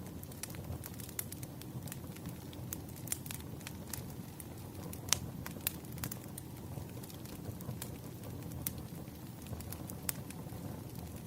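Campfire crackling, with irregular sharp pops of burning wood over a steady low rumble of flames; the loudest pop comes about halfway through.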